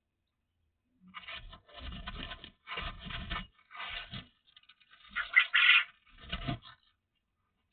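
A series of scraping and rustling noises in short irregular bursts, the loudest about five seconds in.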